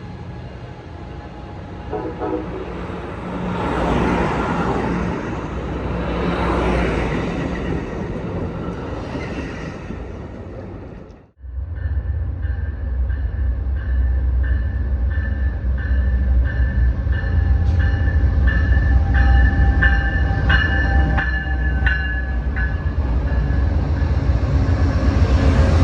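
Trains passing through a station. A first train goes by with a rushing noise that swells and fades, and after an abrupt cut a diesel locomotive rumbles past with a steady high tone over it and regular clicks of wheels over rail joints, growing louder.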